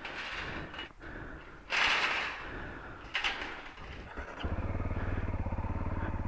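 Rushing and knocking noises, loudest about two seconds in, then a little over four seconds in the single-cylinder engine of a Honda CRF motorcycle sets up a steady, rapid low pulsing.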